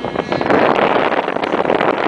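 Strong wind buffeting the microphone, swelling about half a second in and drowning out the high, steady whine of a model helicopter's glow engine and rotors.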